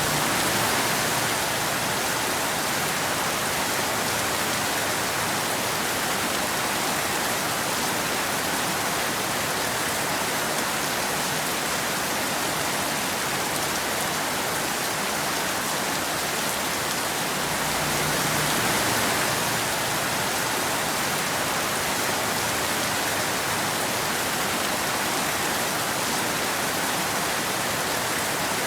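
Steady rain falling in a dense, even hiss, swelling slightly with a faint low rumble about two-thirds of the way through.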